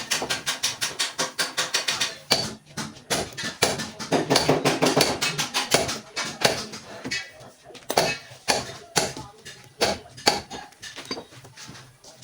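A rapid series of light taps or clicks, fast and fairly even at first and then more irregular, with voices now and then.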